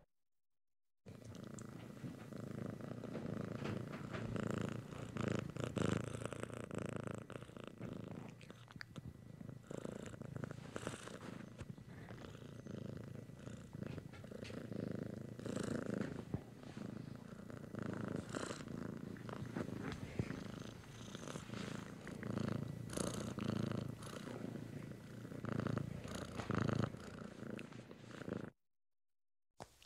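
Domestic cat purring, starting about a second in and stopping near the end, with a swell every second or two.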